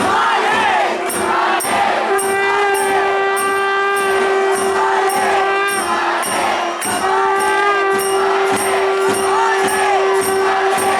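Nadaswaram holding long, sustained notes over a steady beat of thavil drum and small hand cymbals, the classic temple procession music of Tamil Nadu. A crowd murmurs behind the music.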